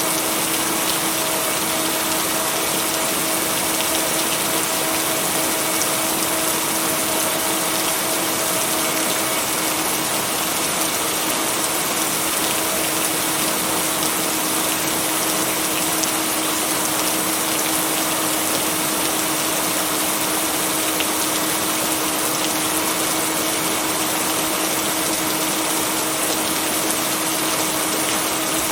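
Steady, even rain hiss with no thunder, with a low steady hum of two held tones running under it. The tones fit the binaural-beat tones blended into the rain track.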